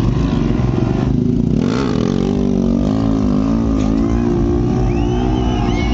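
Superbike engines running and revving loudly, their pitch wavering up and down from about two seconds in.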